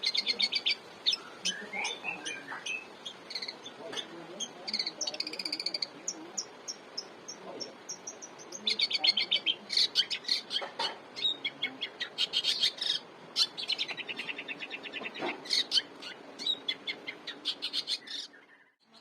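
Long-tailed shrike singing a fast, chattering song of rapidly repeated high notes and trills in bursts, with short pauses between phrases. The sound drops out abruptly shortly before the end.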